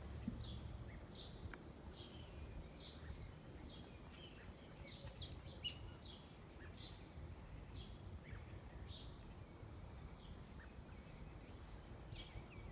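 Small birds chirping: short, high, downward-sweeping chirps repeating about once or twice a second, faint, over a low background rumble.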